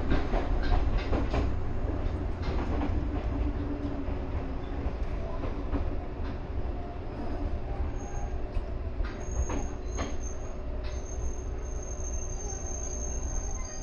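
Ryutetsu 5000 series electric train running on the rails, a steady low rumble with sharp clicks over the rail in the first few seconds. About eight seconds in, a thin, high, steady squeal comes in and holds.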